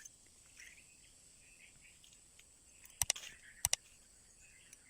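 Steady high-pitched drone of forest insects, with two quick pairs of sharp clicks about three seconds in, about half a second apart.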